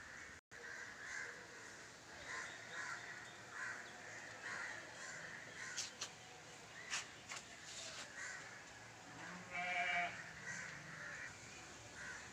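Crows cawing over and over in the background, with a single bleat from a goat or sheep about ten seconds in. A few sharp clicks come around six to seven seconds.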